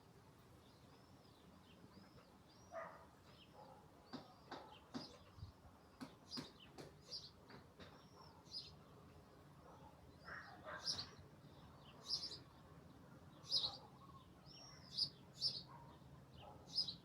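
Songbirds singing outdoors: faint repeated short high notes, joined after a few seconds by louder sharp chirps that come every second or so.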